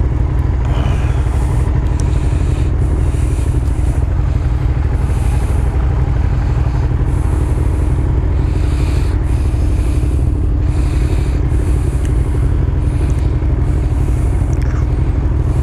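Motorcycle riding along with its engine running steadily, under a heavy, constant rumble of wind on the microphone.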